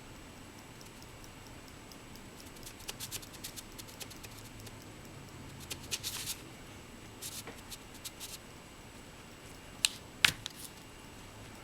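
Scattered light clicks and taps in small clusters, with two sharper, louder clicks near the end, over a faint steady hum.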